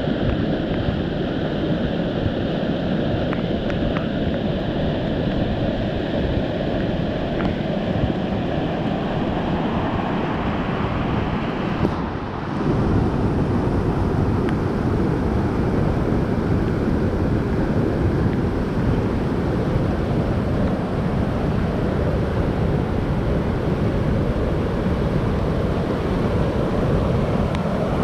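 Rain-swollen stream rushing, a steady noise of fast-flowing water. About twelve seconds in the sound changes abruptly and becomes louder and deeper.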